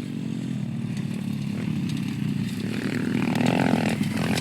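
Small pit bike engine running, revving up harder about three seconds in.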